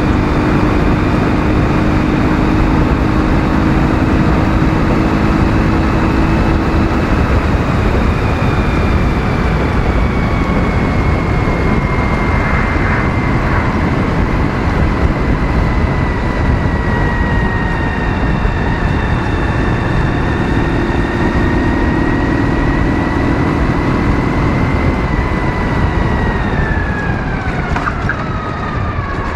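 Ural motorcycle's 650 cc flat-twin engine running under way at speed, with heavy wind and road noise. A thin high whine rides over it, slowly sinking in pitch and dropping off more steeply near the end.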